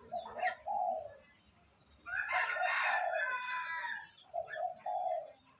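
A rooster crows once in the middle, about two seconds long and the loudest sound. Before and after it a dove gives short cooing notes, with small birds chirping.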